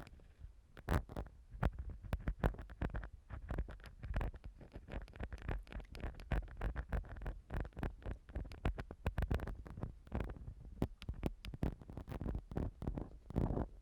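Close-up ear-cleaning sounds from a tool scraping and rubbing against a microphone: a dense, irregular run of small clicks and scratches over a low rumble of handling.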